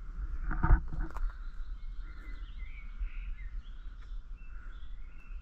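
Scattered faint bird chirps over a steady background hum and low rumble, with a brief thump and a click within the first second or so.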